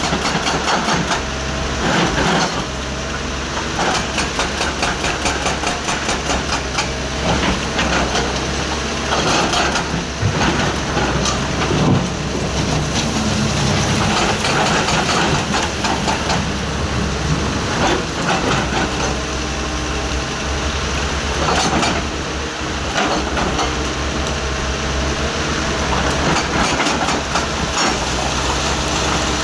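Excavator engine running steadily, with repeated knocks and clatter over it.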